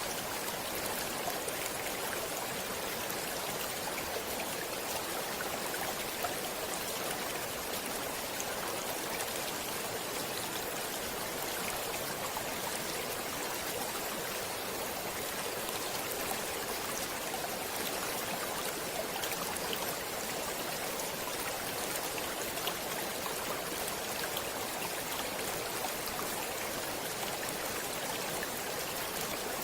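Stream water flowing steadily: an even, unbroken rush flecked with small splashes.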